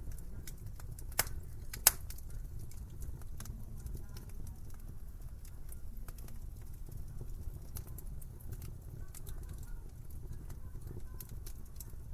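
Wood fire crackling over a low, steady rumble, with many small scattered snaps and two sharp, louder pops about a second and two seconds in.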